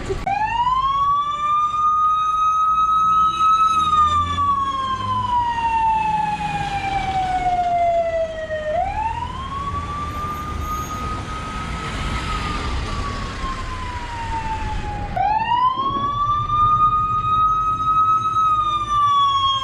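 Emergency vehicle siren in a slow wail. It sweeps up quickly, holds high, then falls slowly over about five seconds, starting over three times, with a low rumble underneath.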